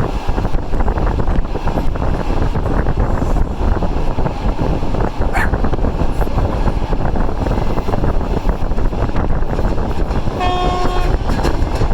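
TEP70-hauled passenger train under way, a steady rumble of wheels and running noise, with a short train-horn blast near the end.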